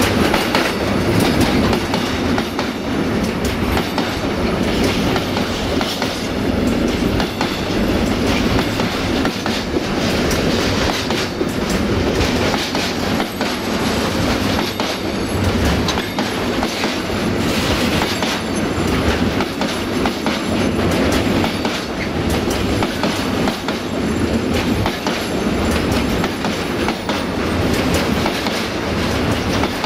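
Container flat wagons of a long intermodal freight train rolling past close by: a steady rumble of steel wheels on rail, with repeated clicking as the wheelsets pass over rail joints.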